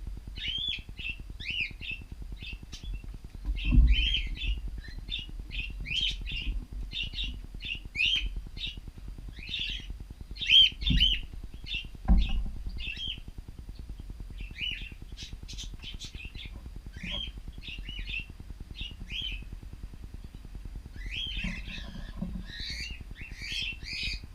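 Cockatiels chirping, a steady stream of short calls one after another, busier near the end. Two low thumps come about four and eleven seconds in.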